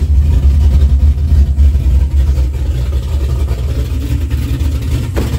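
LS V8 engine in a Chevy S10 pickup idling just after a cold start, with a deep, steady exhaust note that is a little louder in the first couple of seconds before settling.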